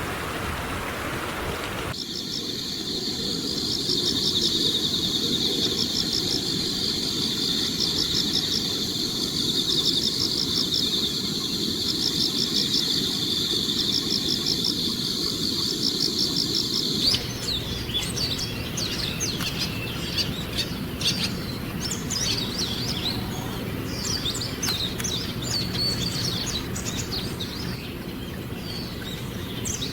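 Wild songbirds calling. For the first half there is a steady high-pitched trilling with repeated short flourishes, and after an abrupt change about halfway through there are many short, quick chirps.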